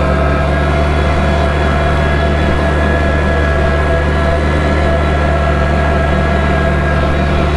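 Kubota tractor's diesel engine running at a steady, unchanging speed.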